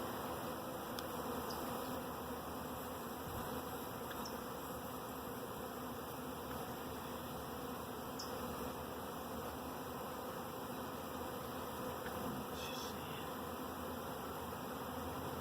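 A honeybee swarm buzzing steadily, the bees clustered outside a nuc box.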